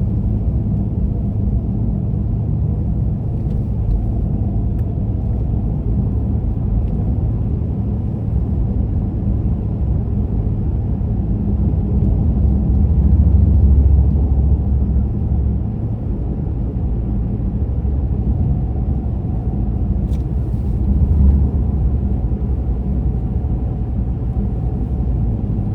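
Car driving at road speed, heard from inside the cabin: a steady low rumble of engine and tyres. It swells louder for a few seconds around the middle and once more briefly later on.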